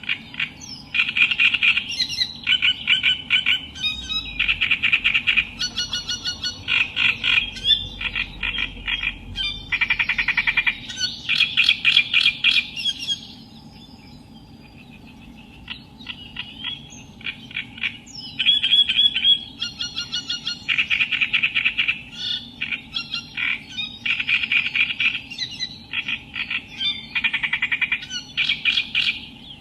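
Reed warbler singing: loud, harsh, chattering phrases of rapidly repeated notes, with a lull of a few seconds about halfway through before the song resumes.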